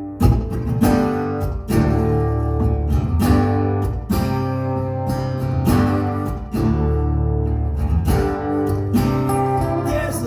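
Instrumental break of a live song: acoustic guitar strumming chords in a steady rhythm over a low bass line, with no singing.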